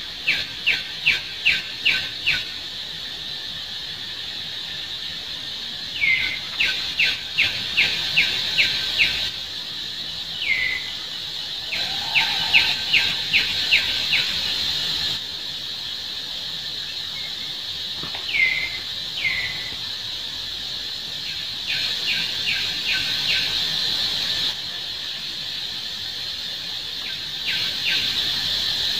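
A bird calling in runs of five to eight short, sharp notes, about three a second, repeated in several phrases, with a few single falling notes between them, over a steady high background hum.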